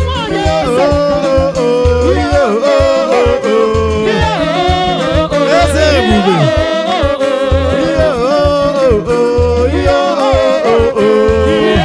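Igbo gospel praise music: a sung melody over a band with a steady bass line and drums.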